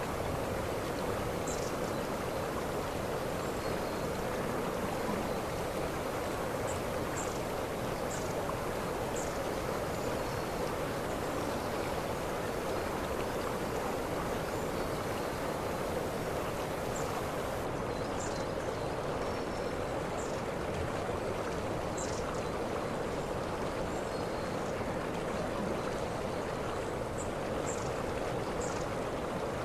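Waterfall's falling water: a steady, even rush of water with no change in level, and a scattering of short, high chirps over it.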